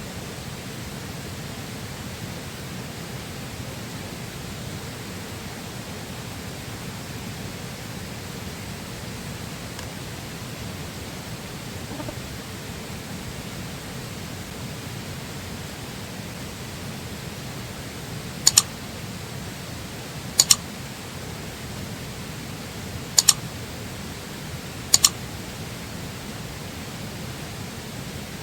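Steady rushing of a flowing river, with four sharp double clicks a couple of seconds apart in the second half.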